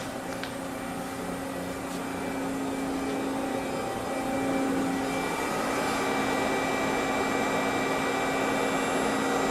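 Hydraulic pump of a 1993 Amada FBD-8025E 80-ton CNC press brake running with a steady hum, growing a little louder and busier about halfway through.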